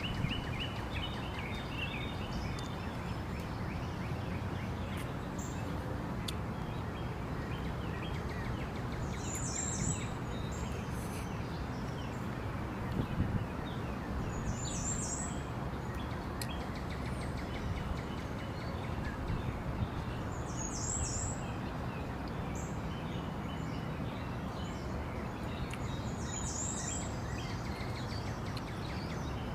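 Steady outdoor background noise, with a bird giving a short, high, several-note chirp four times, about every five or six seconds.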